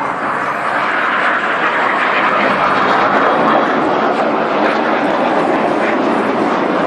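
Jet engine noise of Red Arrows BAE Hawk jets flying their display, a loud steady rush that swells slightly about a second in.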